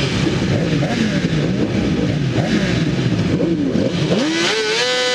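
Honda CBR600RR inline-four engine heard onboard, revved up and down repeatedly by throttle blips. Near the end the revs climb and are held steady at a high, constant pitch.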